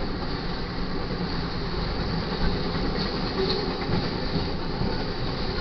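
A double-stack intermodal container train rolling past fast: a steady rumble and rattle of wheels and cars on the rails, with some clickety-clack over the joints.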